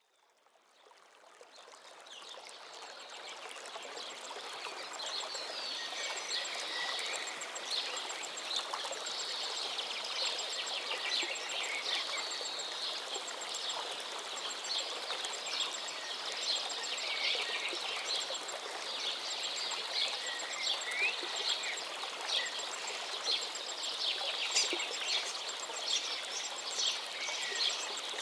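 Many small birds chirping and singing over a steady rushing background noise, fading in over the first few seconds.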